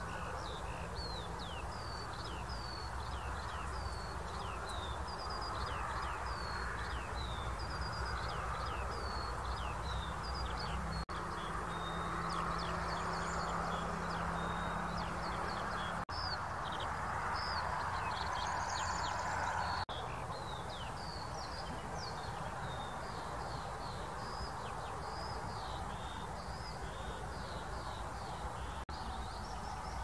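Several songbirds singing at once: a dense run of quick, high chirps and down-slurred whistled notes, over a steady background hiss.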